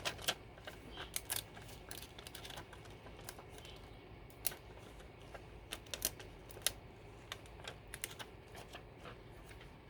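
Irregular light clicks and taps from paper-craft materials being handled on a work table, some close together and some spread out.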